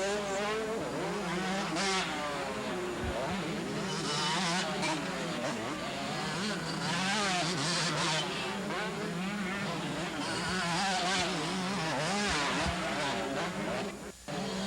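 Several two-stroke motocross bikes racing, their engines revving up and down over one another as they shift and take jumps. The sound drops out briefly near the end.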